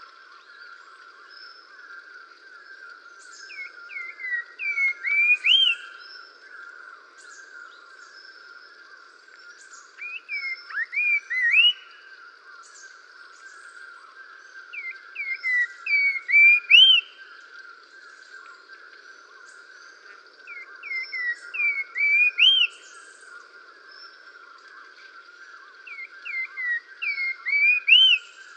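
Recorded birdsong: a bird repeating the same phrase about every five to six seconds, five times, each a run of short rising whistled notes that grows louder and ends on a higher upslur. Under it runs a steady chirring background chorus.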